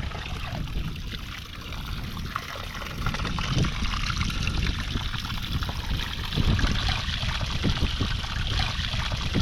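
Shallow water trickling and flowing, with scattered low splashes.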